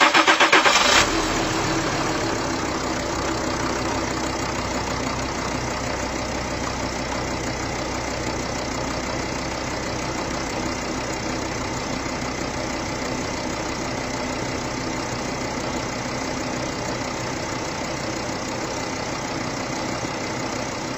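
A steady mechanical running sound like a small engine. It starts abruptly, is louder for about the first second, then runs evenly.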